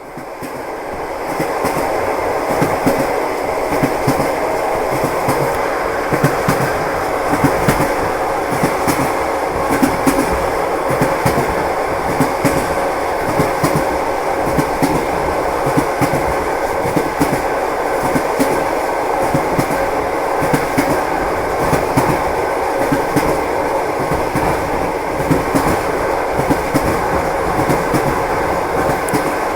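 Train wheels knocking over rail joints in a steady clickety-clack, over a continuous rolling rumble. The sound fades in over the first second or two.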